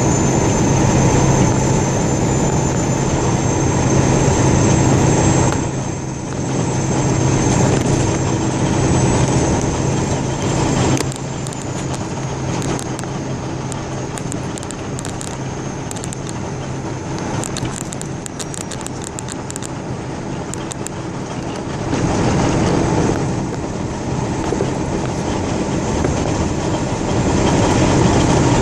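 Steady low rumble of a vehicle on the move. It drops in level about eleven seconds in and comes back up near the end, with a scatter of light clicks in the quieter middle stretch.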